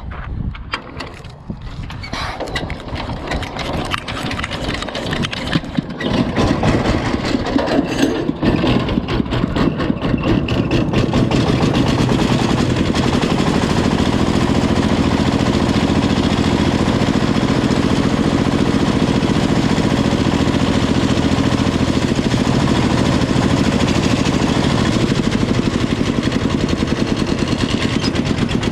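Diesel engine of heavy machinery, building up over the first ten seconds or so, then running steadily with a fast, even chugging.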